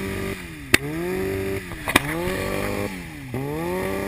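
2002 Yamaha R6's inline-four engine revved in repeated blips: each time the pitch climbs, holds for about a second, then drops back. Two sharp exhaust pops come a little over a second apart, each as the revs fall back.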